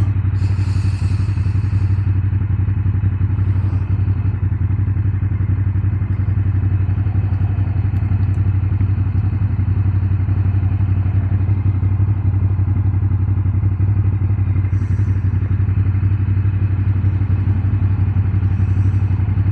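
Ducati Monster 1200's L-twin engine running at a steady pitch while the motorcycle cruises at an even speed.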